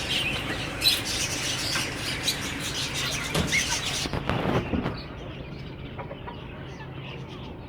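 Many caged birds chirping and calling together, a dense mix of short high chirps that grows quieter and duller about four seconds in.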